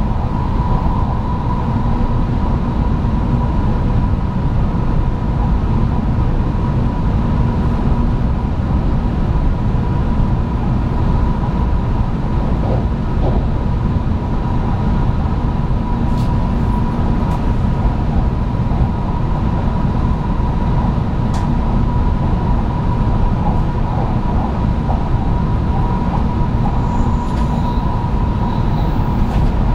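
Steady running noise of a 700 Series Shinkansen train heard from inside the car while cruising: a constant rumble of wheels on rails with a thin, high steady hum above it.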